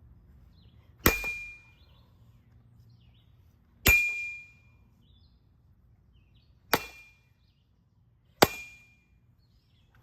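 A baseball bat striking the metal ceiling fan four times, a few seconds apart, each blow a loud clang with a short high metallic ring.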